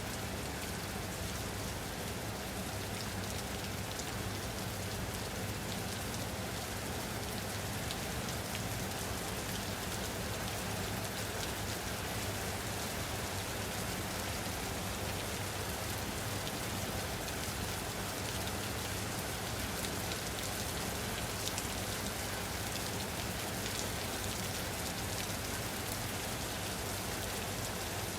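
Steady rain falling on a surface, a dense even hiss with scattered individual drop ticks, unchanging throughout.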